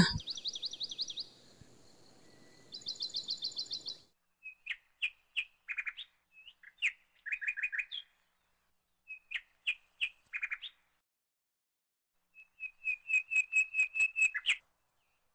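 Small birds chirping: two quick high trills in the first few seconds, then scattered bursts of short, lower chirps, ending in a fast run of about ten chirps.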